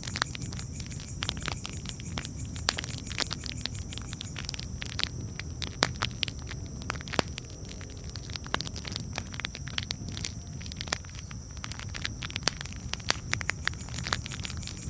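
Campfire crackling: frequent irregular sharp snaps and pops over a steady low rumble.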